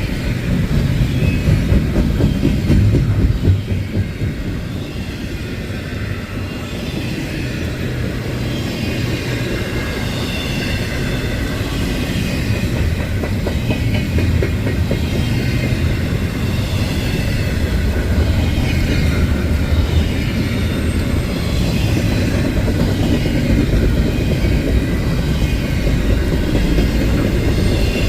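Freight train rolling past: a steady rumble of railcars on the track.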